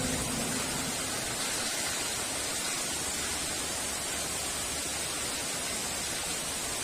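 Heavy rain falling in a steady, even hiss, with the last of a thunder rumble dying away about a second in.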